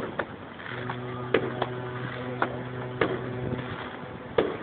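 Cruise ship's horn sounding one long, steady, low blast of about three seconds, with sharp fireworks bangs going off throughout, the loudest at the start and near the end.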